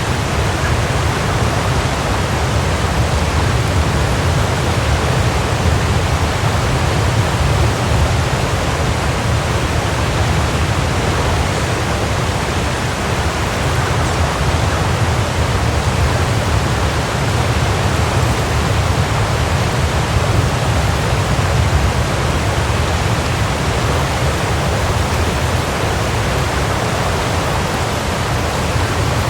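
Waterfall: a steady, unbroken rush of falling water, deep and full in the low end.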